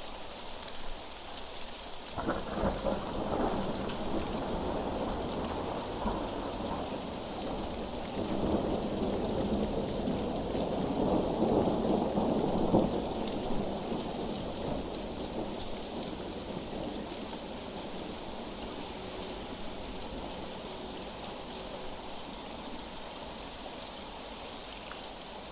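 Steady rain falling, with a roll of thunder that breaks in suddenly about two seconds in, builds to its loudest around the middle and slowly rumbles away.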